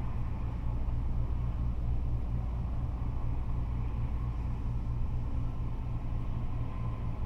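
Steady low rumble of freeway traffic passing, with a faint whine coming in near the end.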